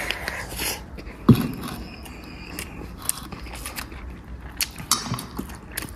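A person eating: chewing with scattered small clicks and knocks, the sharpest about a second in.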